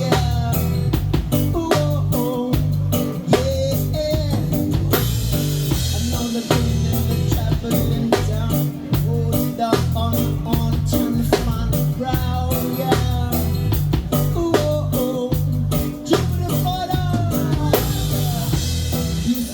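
Live band playing an instrumental passage of a reggae-rock song: drum kit with regular sharp hits, bass, and guitar, with a sliding melodic lead line over them.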